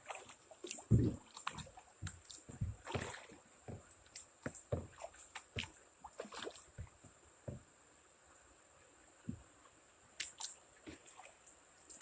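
Kayak paddling: irregular paddle splashes and water sloshing, with short knocks of the paddle against the kayak.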